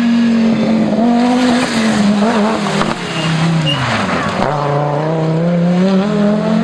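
Audi Quattro S1 Pikes Peak race car's turbocharged five-cylinder engine at high revs. The pitch falls steeply about four seconds in as the driver lifts off, then climbs steadily again under acceleration.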